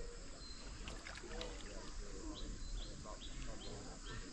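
A high, short chirp repeated about three times a second, starting about halfway in, with faint voices in the background.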